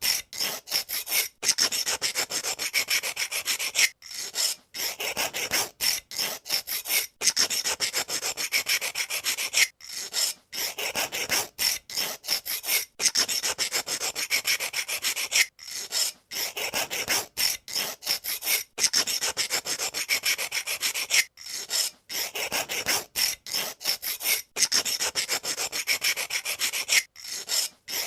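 Pencil sharpener blade shaving a wooden pencil: a rasping scrape that comes in runs of a second or two, broken by short, irregular pauses.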